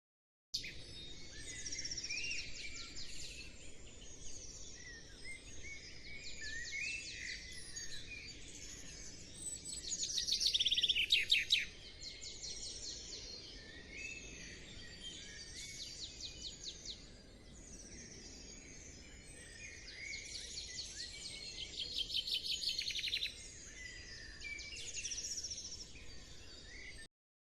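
Several small songbirds chirping and trilling together, with the loudest rapid trills about ten seconds in and again about twenty-two seconds in.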